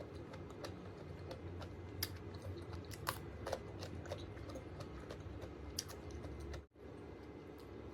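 Someone chewing giant octopus tentacle, with irregular sharp clicks and crunches over a low steady hum.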